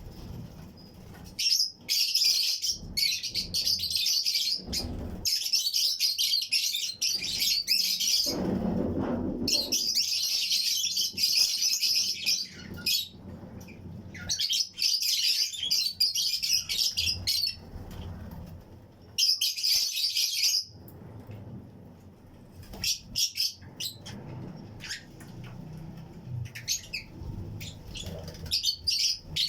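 A colony of Fischer's and lutino lovebirds chirping in a flight-cage aviary: dense, high, shrill chatter in bouts of a few seconds with short lulls between, thinning to scattered chirps near the end.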